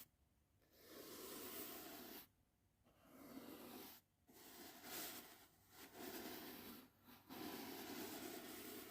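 Soft brush strokes sweeping slowly, about five faint swishes, each a second or so long with short pauses between.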